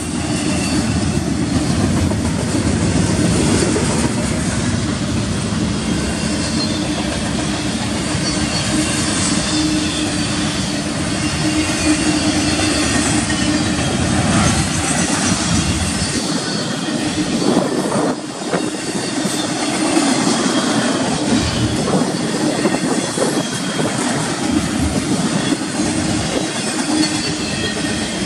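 Double-stack intermodal well cars rolling past on steel rails: a steady loud rumble of wheels on the track with clicks over rail joints and a faint high wheel squeal at times. The deepest part of the rumble thins out a little past halfway through.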